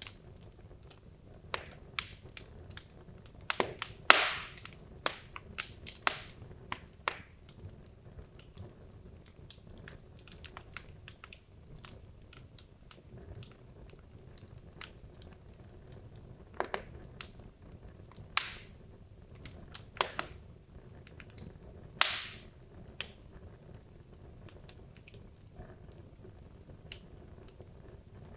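Wood logs burning in a fireplace, crackling with irregular sharp pops and snaps over a faint steady low background. The loudest snaps come about four seconds in and again around twenty-two seconds in.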